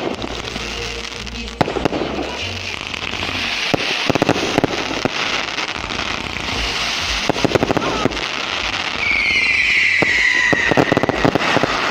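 Fireworks going off: a run of sharp bangs and crackling, and a falling whistle about nine seconds in.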